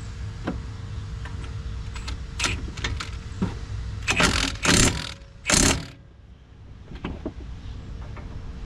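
Milwaukee impact wrench tightening brake bolts in three short bursts, about four to six seconds in, after a few light clicks and knocks of tools.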